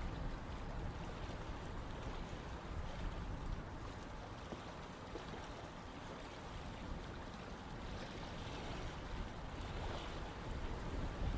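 Running water rushing steadily, with a deep low rumble that eases slightly in the middle and swells again near the end.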